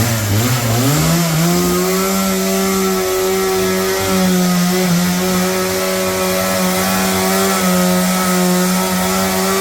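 An engine revs up from idle over about a second and a half, then runs steadily at high speed.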